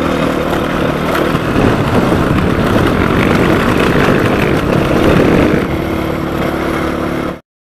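Rally motorcycle engine running while riding, heard from a helmet camera. A louder rushing noise covers the engine note through the middle. All sound cuts off abruptly just before the end.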